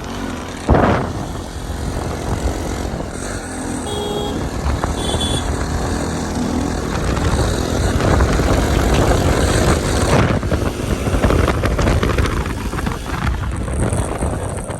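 Motorbike engine running on the move, with steady wind and road noise. A sharp knock comes just under a second in.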